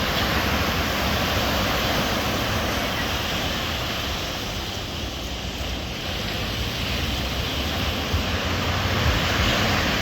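Stormy sea surf: a steady, dense rush of breaking waves that swells and eases, growing louder near the end, with wind buffeting the microphone in a low rumble.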